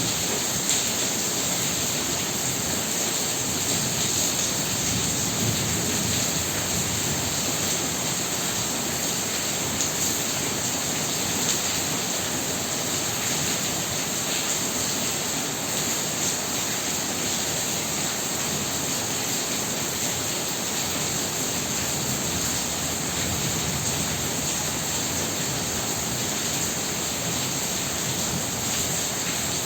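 Heavy rain pouring steadily, an even hiss of water on surfaces with a few brief louder splashes.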